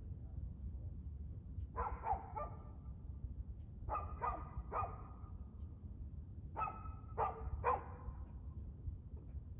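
A dog barking in three bouts of about three barks each, a couple of seconds apart, over a steady low rumble.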